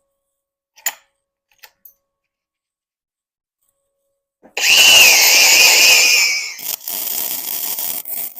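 A faint click, then about halfway through a power tool starts with a loud whine that dips slightly and wavers, as if under load. After about two seconds it falls to a quieter hiss that stops just before the end.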